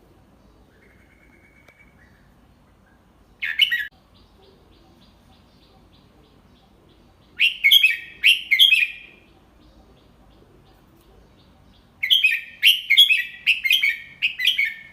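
Red-whiskered bulbul singing in short, bright warbled phrases. There is a brief phrase about three and a half seconds in, a two-part phrase around eight seconds, and a longer run of quick notes over the last three seconds, with faint soft chirps between the phrases.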